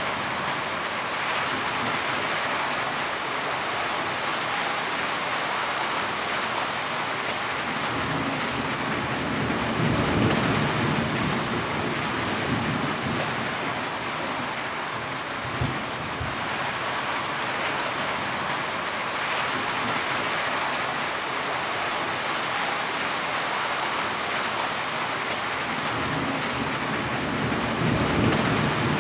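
Heavy rain falling steadily, with low thunder rumbles swelling about ten seconds in and again near the end, and one sharp tap a little past the middle.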